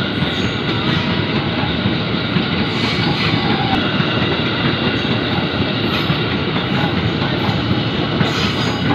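KRL Commuter Line electric multiple-unit train running past close by: a steady, loud noise of wheels on the rails with some clickety-clack.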